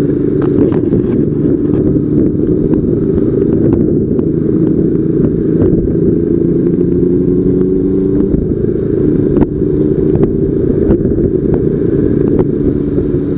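Motorcycle engine running steadily under a loud, dense low rumble. Its pitch drifts slowly up and down.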